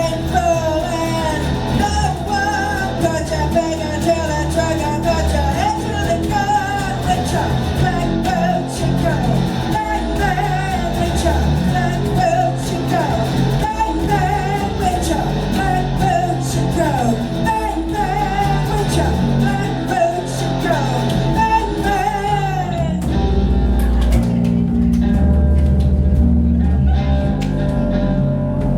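Live rock band playing: a sung melody over guitar, bass and drums. About 23 seconds in the singing stops and the band carries on instrumentally, with the bass and drums heavier.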